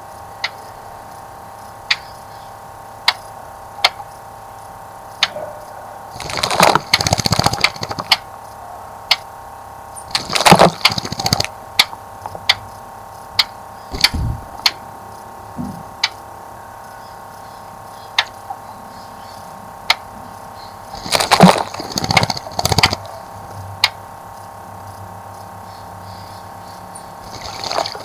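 Small bird splashing in a birdbath in four bouts, each a second or two long, with single sharp ticks about every second or so between the bouts.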